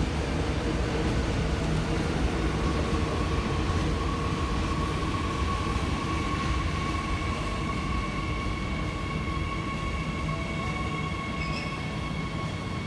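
Jakarta Airport Rail Link electric train pulling in along the platform, its carriages rolling past close by with a steady rumble. A steady high whine starts about two seconds in, and a second, higher one joins about halfway through.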